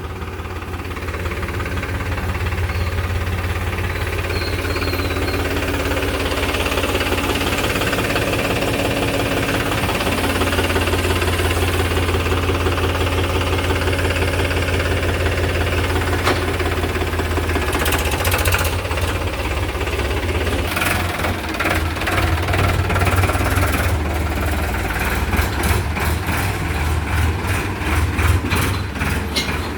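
A tractor's diesel engine running with a steady low drone. From about two-thirds of the way through, the sound turns uneven, with repeated irregular knocks and clatters over the engine.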